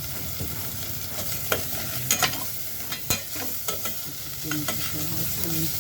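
Shredded roast chicken sizzling as it fries in oil in a pot, with a utensil clinking and scraping against the pot several times as it is stirred.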